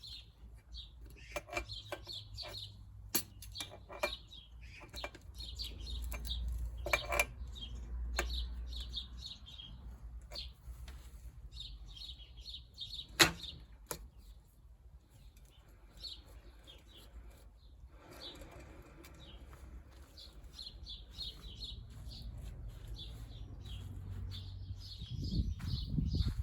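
Small birds chirping repeatedly in the background, with scattered clicks and knocks and one sharp click about halfway through.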